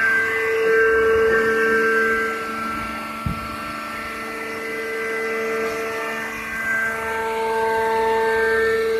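Hydraulic straw baler running, its motor-driven hydraulic pump giving a steady whine that swells and eases as the three cylinders work under load. A single sharp knock about three seconds in.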